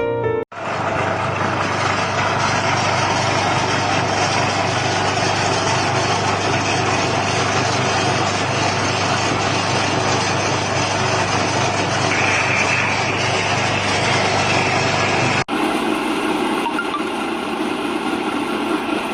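Small feed pellet mill running with its engine at a steady speed. About three-quarters of the way through, the sound cuts abruptly to another stretch of the machine running, with less low hum.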